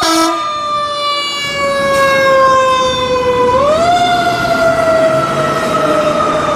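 Fire engine siren on a 2012 KME pumper. Its pitch sags slowly for a few seconds, swings back up just before the halfway mark, then slowly falls again. A horn blast cuts off right at the start.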